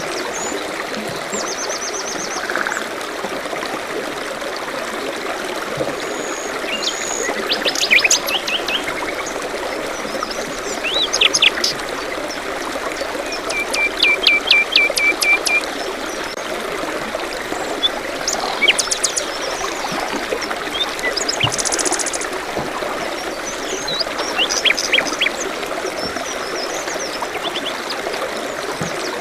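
A forest stream trickling steadily, with several small birds chirping and singing over it at intervals. Midway through comes a run of about eight quick, even notes at one pitch.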